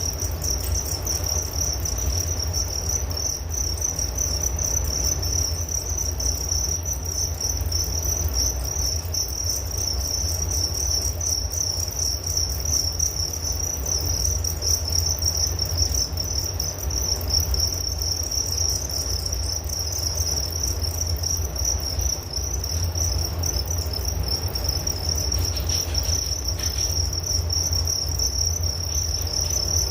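Crickets chirping in a dense, continuous high-pitched trill that never breaks, over a steady low rumble.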